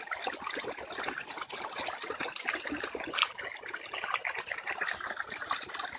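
Floodwater from torrential rain running and splashing, a steady rushing, trickling sound.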